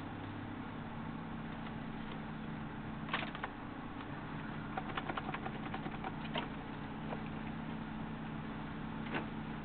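Hyundai Tiburon idling steadily through a full Magnaflow exhaust system, with a few scattered sharp clicks over the top.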